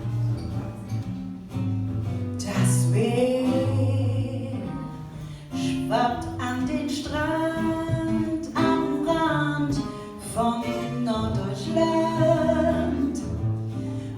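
Song with guitar accompaniment: plucked guitar notes, with a singing voice coming in a couple of seconds in and carrying long held notes.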